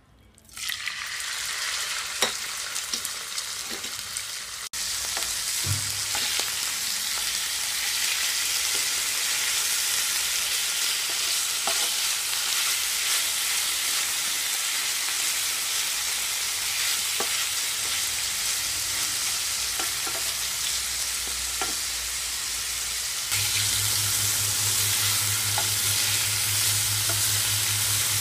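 Chicken pieces hitting hot mustard oil in a wok, with a loud sizzle that starts about half a second in. The chicken then keeps sizzling steadily as it fries, with occasional clicks of a spatula against the pan. A low steady hum joins in near the end.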